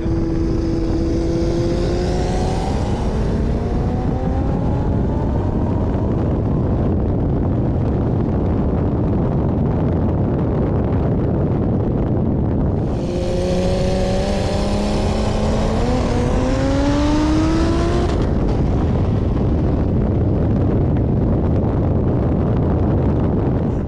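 Car engine accelerating hard in a roll race, its note climbing steadily in pitch twice (once at the start and again about halfway through) over heavy steady wind and road noise at speed.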